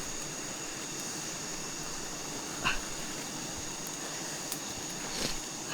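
A dog giving two short barks about two and a half seconds apart, over a steady high-pitched background whine.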